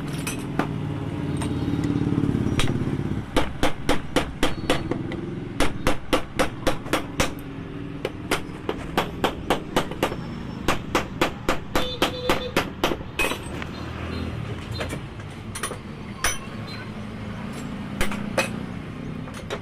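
Hammer blows on a motorcycle shock absorber being repaired: a steady run of sharp strikes, two to three a second, that thins out to scattered blows after about thirteen seconds. A low rumble underlies the first few seconds.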